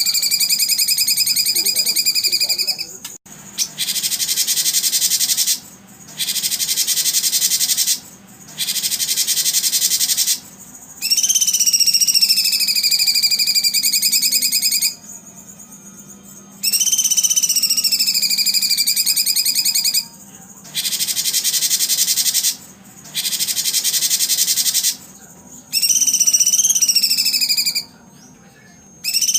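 Recorded animal calls played as training audio for songbirds. Drawn-out high calls, each with a higher overtone and a slight fall in pitch, alternate with dense, even high buzzes. Each part lasts two to four seconds, with short gaps between them, in a repeating pattern.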